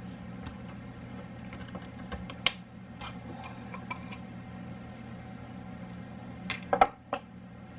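Funnel and containers clinking and tapping as seasoned salt is poured into a smaller container: a few light taps, then a louder cluster of knocks near the end, over a steady low hum.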